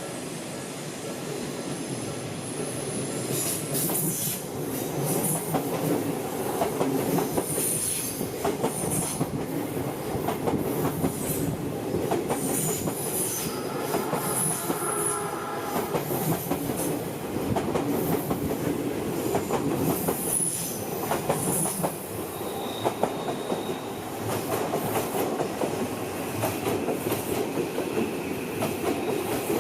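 Odakyu train wheels running over the rails and turnouts. Repeated clicks come from the joints and switch points, and high wheel squeal comes and goes through the first two-thirds.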